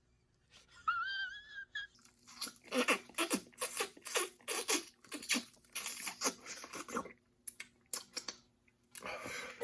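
A person's breathy, wheezing vocal bursts in an irregular run, after the burning spice of very hot wings. About a second in there is a short, wavering high-pitched sound.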